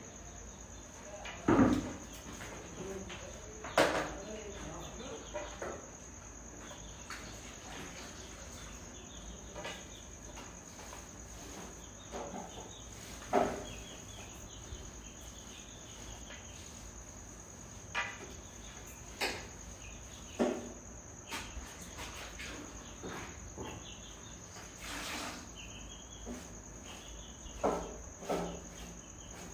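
Steady high-pitched insect chirring with no break, with a handful of sharp knocks and clicks scattered through it.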